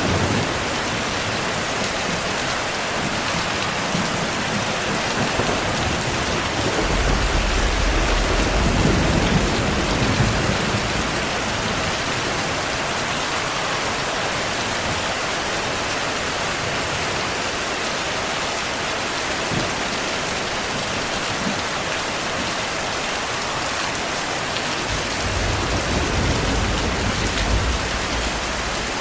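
Heavy rain falling as a steady hiss. Low rumbles of distant thunder swell about seven seconds in and again near the end.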